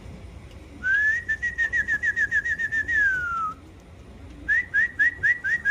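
A whistled call: a rising note runs into a fast trill of short notes, ends in a falling slide, and after a short pause a second fast trill starts near the end.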